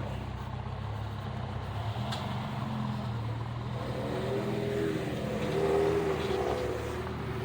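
Off-road vehicle engine running steadily, then revving up and down repeatedly in the second half as a vehicle works over the rocks.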